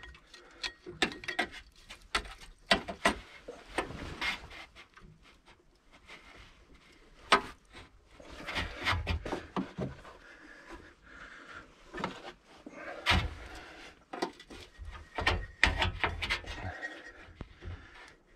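Irregular clicks, knocks and scraping of metal parts being handled and worked into place by hand on an engine, with a few louder knocks.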